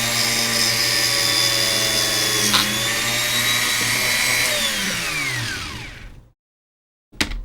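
Small electric power tool polishing the case, running steadily, then switched off about four and a half seconds in and winding down to a stop with falling pitch. A sharp click comes near the end.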